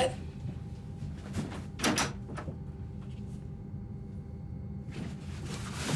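A few short knocks and rustles over a steady low hum: one right at the start, a louder one about two seconds in, and more handling near the end.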